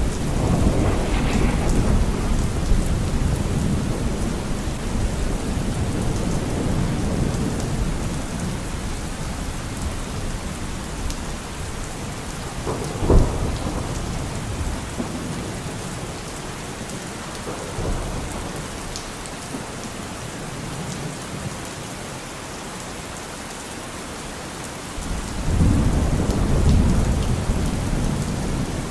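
Steady rain falling with rolling thunder. A low rumble dies away over the first ten seconds, a sharp crack comes about halfway through, and another rumble builds near the end.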